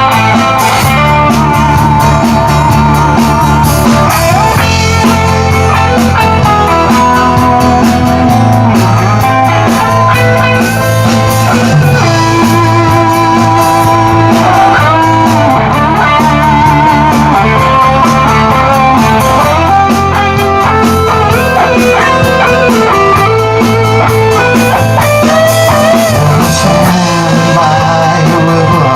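Live rock band playing an instrumental passage: an electric guitar lead with bent, wavering notes over steady bass and drums.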